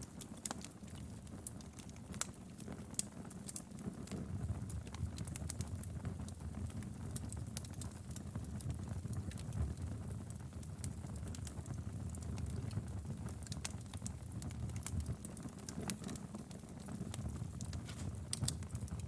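Wood fire crackling: irregular sharp snaps and pops over a low steady rumble of burning flames.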